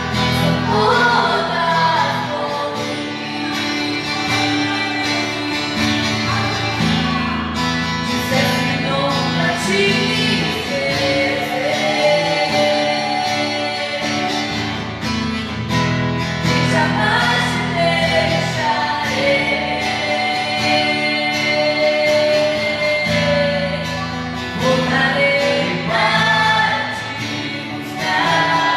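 Worship song: a voice singing a melody over guitar accompaniment.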